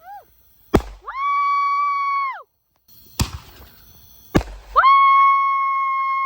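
Consumer fireworks: two sharp bangs, each followed by a steady high-pitched whistle that swoops up at the start and drops off as it burns out, the first short and the second longer.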